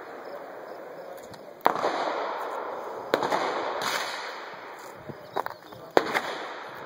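Handgun shots fired one at a time by several shooters on a range, at uneven intervals: three loud cracks about a second and a half to three seconds apart, with a couple of fainter shots between, each trailing off in echo.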